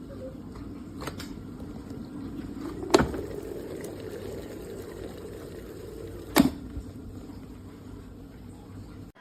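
OXYGEN EK-188 electric kettle heating water, with a steady low rumble from the water. Three sharp clicks or knocks sound about 1, 3 and 6.5 seconds in, the one at 3 seconds the loudest.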